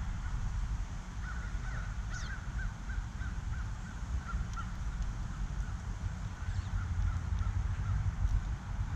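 Outdoor birds calling: a quick run of short repeated notes, about three a second, with a few thin high whistles over a steady low rumble.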